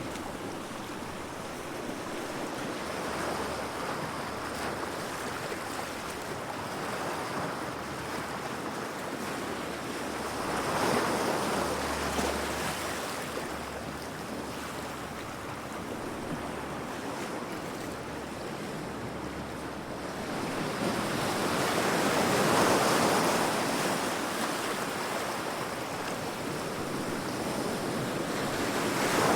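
Heavy ocean waves crashing against rocks, a continuous surging wash of surf that swells louder about a third of the way in and again for several seconds near the end.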